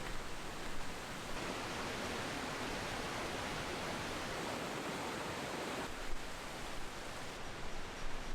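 Steady rushing of a mountain river: an even flowing-water noise, swelling a little for a few seconds in the middle.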